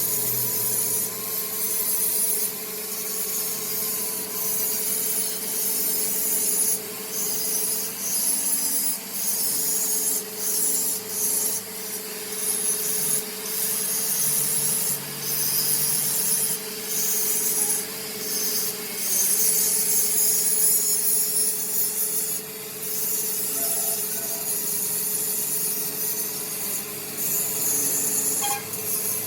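Rasping, scraping metalwork on a clutch flywheel, pulsing unevenly, over a steady machine hum.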